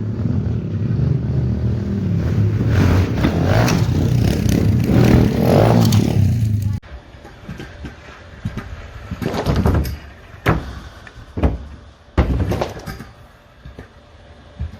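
Pit bike engine running and revving. The sound cuts off suddenly about seven seconds in, leaving a quieter stretch with a few sharp knocks and clatter.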